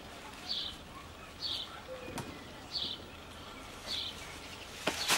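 A bird chirping, a short high call repeated about once a second. There is a single knock about two seconds in and two sharper knocks near the end.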